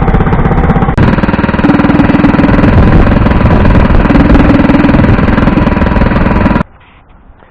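Predator 212 single-cylinder four-stroke engine on a Baja Warrior mini bike, running loud and steady through a Robertson header pipe run open, then cutting off suddenly near the end.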